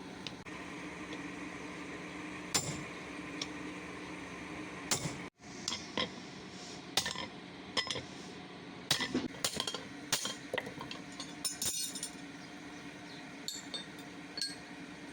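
Scattered metallic clinks and light knocks of steel pieces and tools being handled, thickest in the middle, over a steady hum.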